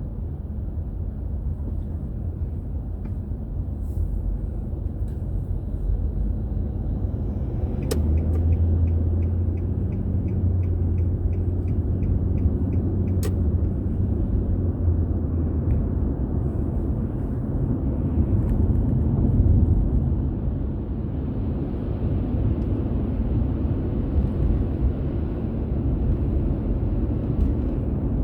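Steady road and engine rumble of a car being driven. For several seconds a little after a third of the way in, a regular faint ticking sounds between two sharp clicks.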